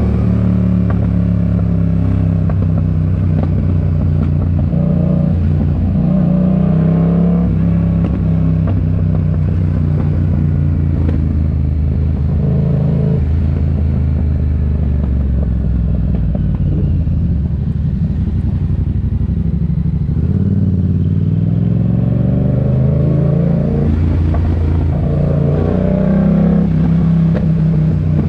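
Yamaha MT-07's parallel-twin engine through a RoadsItalia aftermarket exhaust while riding: the engine note rises and falls repeatedly as the bike accelerates and changes gear.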